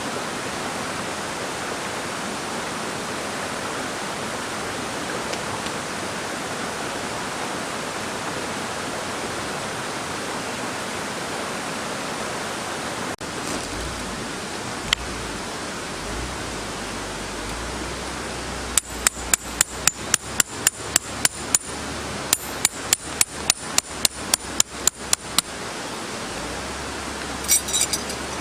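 Two quick runs of sharp hammer strikes, about four a second, with a short break between them. A steady rushing noise runs underneath, and a brief clink follows near the end.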